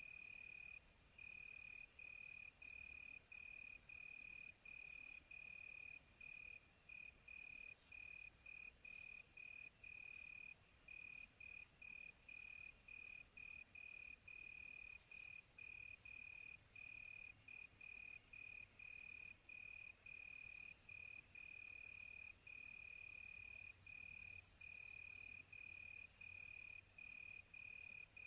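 Crickets chirping at night in a long run of short chirps, about two a second, over a faint high hiss.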